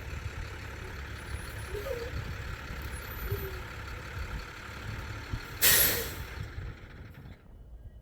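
Heavy diesel vehicle running with a steady low rumble. Its air brakes give one loud hiss of released air, about half a second long, about five and a half seconds in.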